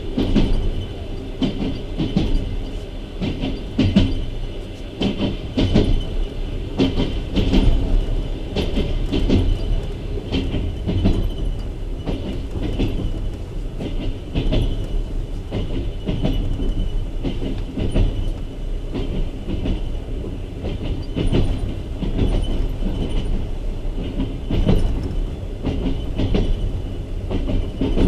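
Passenger train coach running on the track: a steady rumble with irregular clattering of the wheels over rail joints and points, and a faint steady high whine.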